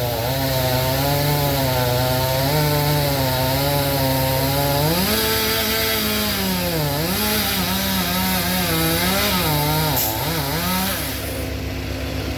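Chainsaw cutting wood. The engine runs steadily at first, then its pitch rises and falls as the bar loads and frees, and it eases off near the end.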